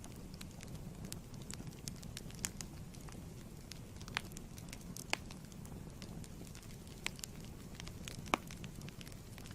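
Fireplace wood fire burning: a steady low rumble under frequent sharp crackles and pops at irregular intervals, the loudest pops about four, five and eight seconds in.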